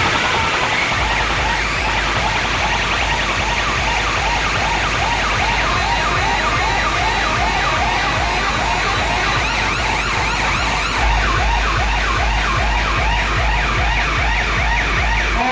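Siren-like whoops repeating about three times a second over a loud, steady deep bass, played through a large DJ sound system. The bass swells near the end and cuts off suddenly.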